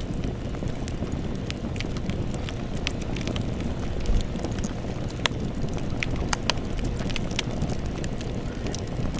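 Campfire burning: wood crackling with many irregular sharp pops over a steady low rumble of flames.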